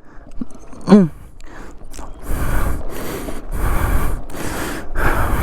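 A person breathing hard after pushing a motorcycle: a short voiced gasp about a second in, then heavy, rhythmic breaths, about one and a half a second.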